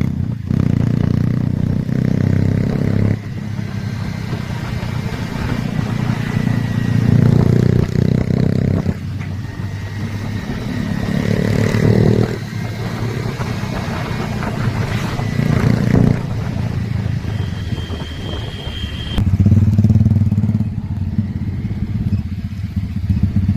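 Motorcycle engine running through an SC-Project aftermarket exhaust, revving up and settling several times. There are sudden shifts in level about 3, 9 and 19 seconds in.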